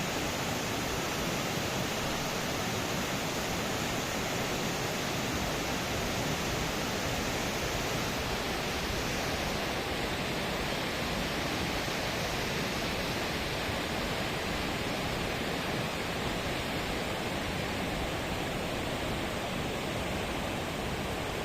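Steady rushing water, an even roar with no breaks; about nine seconds in it turns duller as the highest part of the sound fades.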